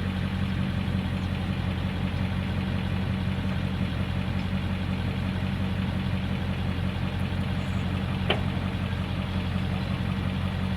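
Steady low hum of an idling vehicle engine, with a single sharp click about eight seconds in.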